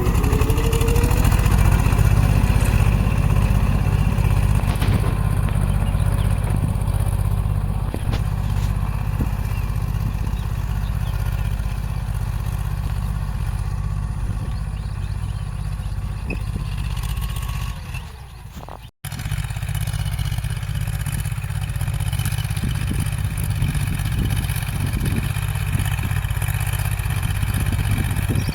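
Tractor diesel engine running steadily, with a clattering low note. About 19 seconds in it fades and cuts out for a moment, then resumes.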